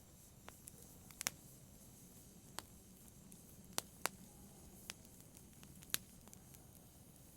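Wood fire in a fireplace crackling: scattered sharp pops at irregular intervals over a faint steady hiss, with two louder pops, one about a second in and one about six seconds in.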